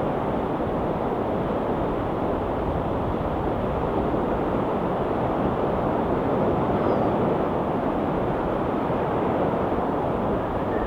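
Ocean surf washing steadily onto the shore, an even, unbroken rush of sea noise.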